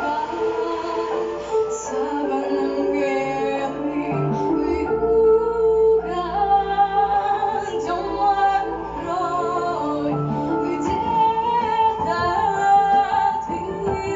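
Music: a woman singing a melody over sustained backing accompaniment.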